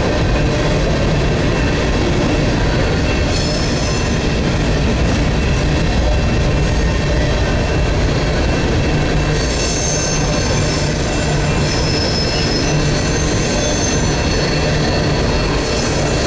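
Coal train hopper cars rolling past on steel rails, a steady loud rumble of wheels, with high-pitched wheel squeal rising out of it three times: about three seconds in, for a few seconds in the middle, and again near the end.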